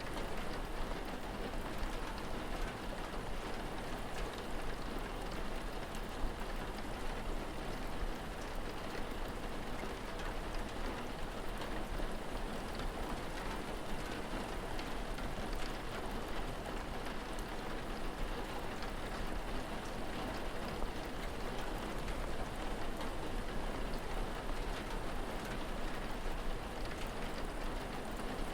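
Steady rain falling, with faint scattered drops ticking and a low steady rumble underneath.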